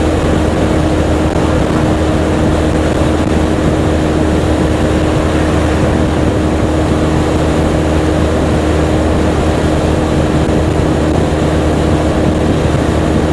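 Motorcycle engine running at a steady speed with a constant even drone, mixed with wind rush.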